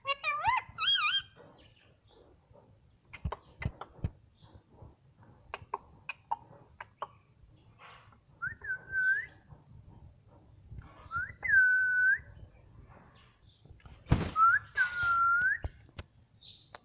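Pet parrot whistling: a warbling whistle at the start, then three whistles that rise and hold on one note, with scattered clicks in between.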